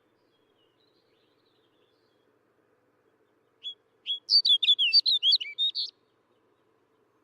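Snow bunting singing one short, fast warbled song phrase about midway: a single opening note, then a quick run of whistled notes sliding up and down, lasting about two seconds.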